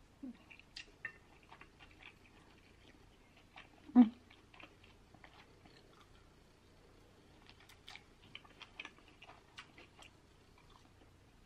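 Close-up chewing and biting of crispy fried chicken wings, with small crackling crunches and wet mouth clicks throughout. One louder, brief mouth sound comes about four seconds in.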